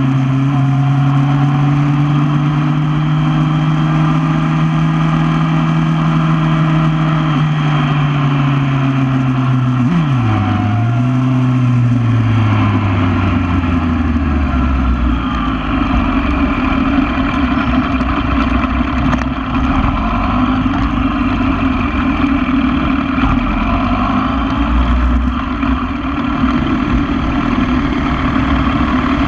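2008 Yamaha R1's inline-four engine, heard from on board, running at steady moderate revs. About ten seconds in there is a quick gear change, and then the revs fall away to a low, idle-like rumble as the bike slows.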